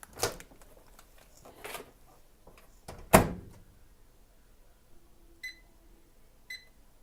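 Microwave oven being loaded: a few handling rustles, then the door shut with one loud clunk about three seconds in, followed by two short keypad beeps about a second apart as the timer is set.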